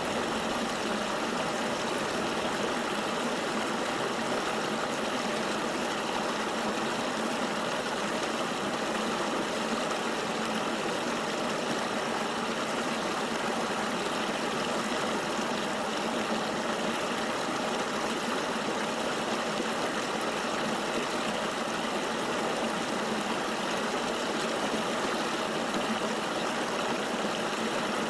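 River water flowing: a steady, unbroken rushing with little deep rumble.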